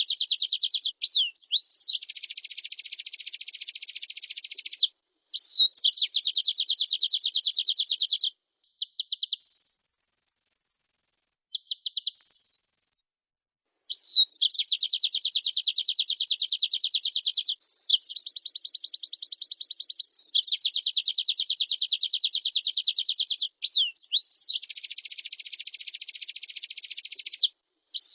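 White-eye (pleci) singing in long, very fast trills of repeated high notes, broken by short pauses with quick sliding whistles. Twice near the middle, a short, very high hissing buzz replaces the trill.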